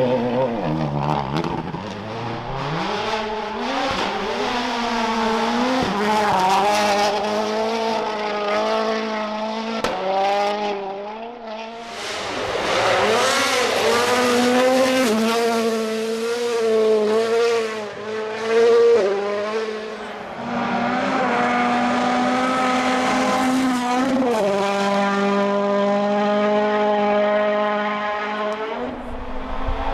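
World Rally Car's turbocharged 1.6-litre four-cylinder engine at full throttle on a gravel stage, its pitch climbing and dropping as gears change, with tyre noise under it. A brief louder hit comes about nineteen seconds in, and the note holds high again before dropping near the end.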